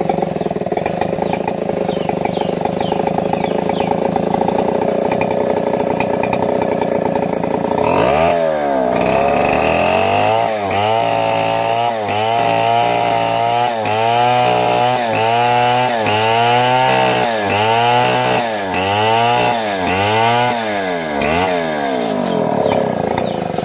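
Chainsaw engine running at a steady pitch, then from about eight seconds in rising and falling in pitch roughly once a second, about a dozen times, before settling back to a steady run near the end.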